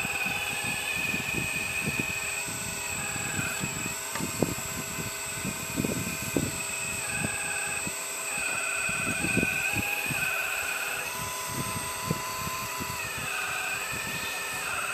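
Hydraulic pump of a 1/12-scale RC4WD Earth Digger 4200XL excavator whining steadily, its pitch dipping and recovering several times as the arm works under load. Scattered knocks and scrapes come from the bucket handling dirt.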